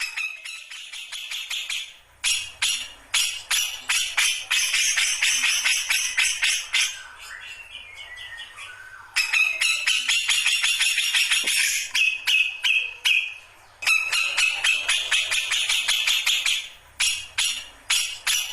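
Grey-cheeked bulbul (cucak jenggot) calling in long bouts of rapid, harsh chattering notes, with short breaks about 2, 9 and 14 seconds in.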